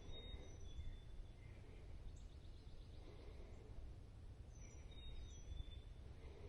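Faint songbirds singing: a short phrase of thin, high whistled notes comes near the start and again about five seconds later, with a rapid trill between, over a low steady rumble.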